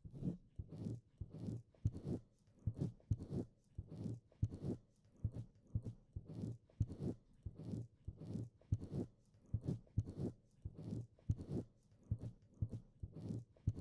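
Wet tongue licking and mouth smacks right on a binaural microphone, repeating about twice a second in short, close, sticky clicks.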